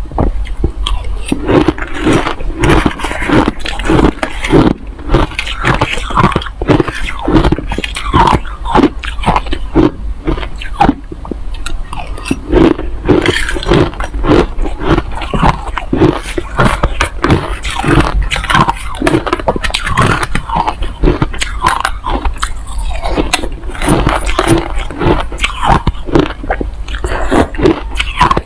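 Hard crushed ice being bitten and chewed: a continuous run of sharp, loud crunches, several a second.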